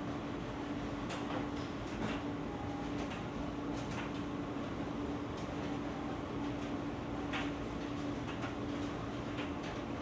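Running HVAC air handler's blower giving a steady hum with a constant low tone, with scattered light taps and clicks from handling duct board.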